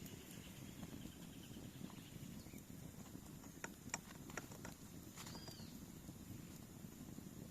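Quiet outdoor ambience: a low steady rush with a few sharp clicks between about three and five seconds in, and a short bird chirp about five seconds in.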